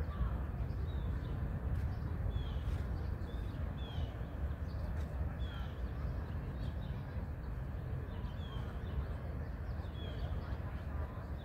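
Outdoor ambience: a steady low rumble with a bird's short, high, downslurred chirps repeating every second or two.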